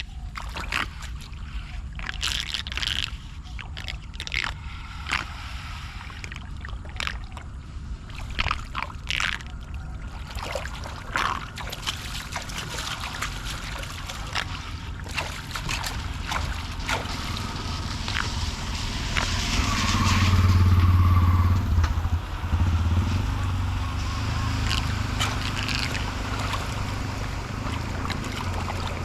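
Floodwater gurgling and sloshing at a clogged street drain, with many short scrapes and splashes through the first half as debris is cleared. A louder low rumble swells and fades about twenty seconds in, like a passing vehicle.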